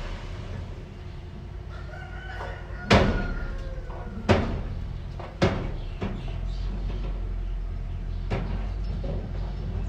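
Small earthmoving machine engine running steadily, with four sharp clanks, the loudest about three seconds in. A rooster crows in the background just before the first clank.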